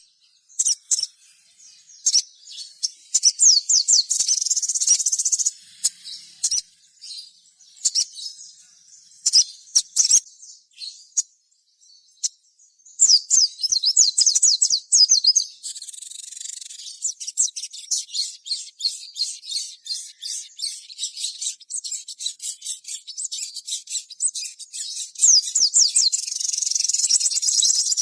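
Crimson sunbird (sogon) singing: rapid, high-pitched twittering trills in bursts, then a sparser stretch of single chirps, with near-continuous twittering from about halfway on.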